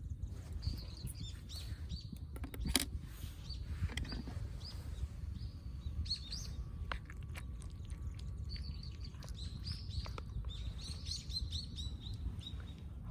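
Small birds chirping and calling, with a quick run of chirps near the end, over a steady low rumble. A few sharp clicks, the loudest about three seconds in.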